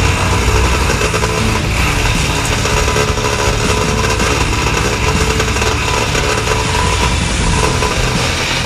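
Compact wood chipper's 23 hp engine running steadily, its pitch wavering slightly.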